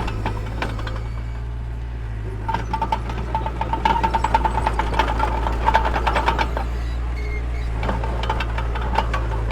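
A heavy construction machine's diesel engine running steadily. From about two and a half seconds in to about seven seconds, a fast metallic clanking rattle with a pulsing squeal rides over it.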